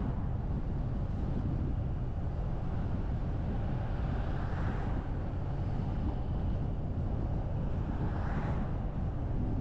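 Steady low rumble of road and wind noise from a car driving along, with brief swells of hiss about halfway through and again near the end.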